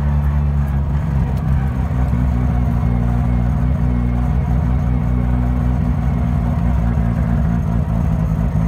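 Mazda car engine running steadily under way, heard from inside the cabin: a deep, even drone that holds nearly the same pitch throughout.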